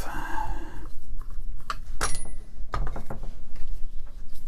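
Handling noise from a rotary hammer's side handle as its extension piece is unscrewed: a scraping rub at first, then a few sharp clicks and knocks of metal parts.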